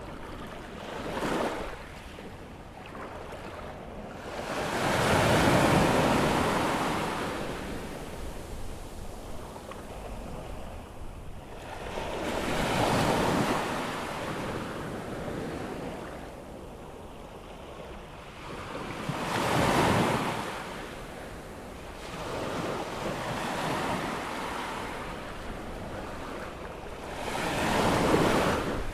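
Atlantic surf on a rising tide: waves breaking and washing up the beach in surges every several seconds, the loudest about five seconds in and near the end, with a light wind noise on the microphone.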